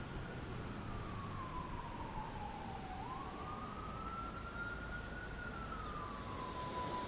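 A distant siren sounding as one wavering tone: it slides down for about three seconds, jumps back up, then falls a little and holds steady near the end.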